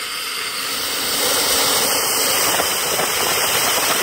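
Steam boiler blower jet hissing steadily from a ring in the stack, a loud even rush of steam at 20 pounds of pressure that swells over the first second, then holds. It is pulling a strong draft through the firebox.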